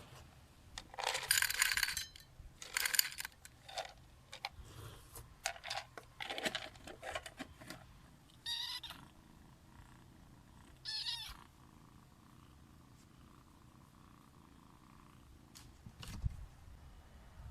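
Kitten meowing: two short cries, the first about halfway through and the second a few seconds later, amid rustling, handling noises and small knocks.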